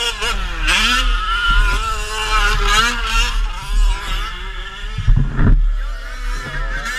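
Truck engine revving, its pitch rising and falling unevenly, with a heavy low thump about five seconds in.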